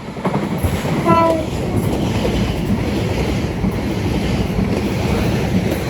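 Two coupled Class 720 electric multiple units passing through the platform, a loud, steady rush of wheels on rail and moving air with wheel clatter. A brief tone sounds about a second in.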